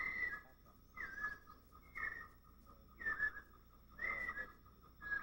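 A bird's short whistled call repeated about once a second, each note dipping in pitch and then levelling off, over a faint steady insect drone.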